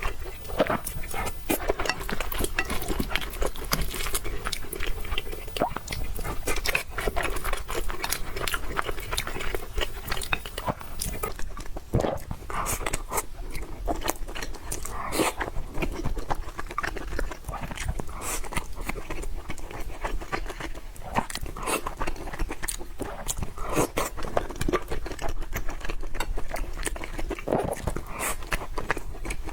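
Close-miked eating sounds: steady, irregular chewing with wet mouth clicks and occasional crunchy bites.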